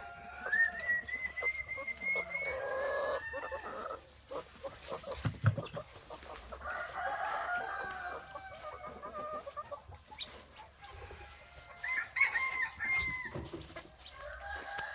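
Chickens clucking, with a rooster crowing near the start, and more calls from the flock later on. A few short knocks and rattles sound about four to six seconds in.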